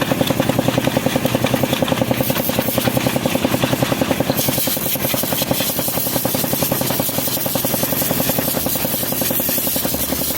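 Truck's diesel engine running with a rapid, even pulse, about six or seven beats a second.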